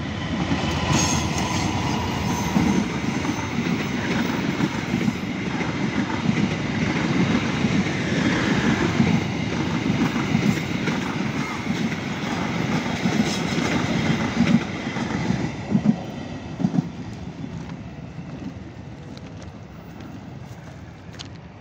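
Diesel-hauled passenger train passing close by: a steady rumble of the locomotive and the wheels on the rails, with clickety-clack and a few sharp clacks over rail joints about three-quarters of the way in. The sound then fades as the train draws away.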